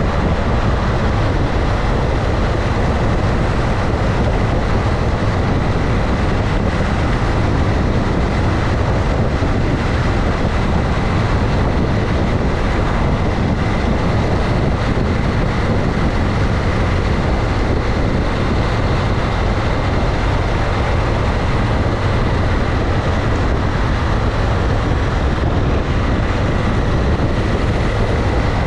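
Motorcycle ridden at a steady speed: a constant rush of wind and road noise over the engine's low drone, with a faint steady whine, and no change in speed or gear.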